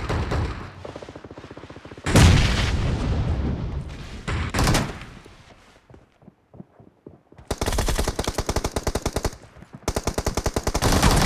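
Video game automatic gunfire: rapid bursts of machine-gun fire, with a louder bang ringing out about two seconds in. After a short lull, two long bursts of rapid fire follow near the end.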